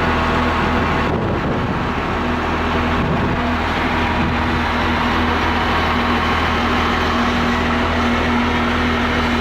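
Diesel engine of a large John Deere rubber-tired loader running steadily, with a brief rougher stretch about one to three seconds in.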